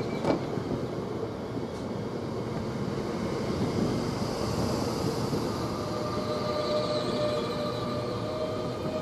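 Passenger train moving through the station: a steady rumble of wheels and running gear, with one sharp click just after the start and a steady whine that comes in about halfway through.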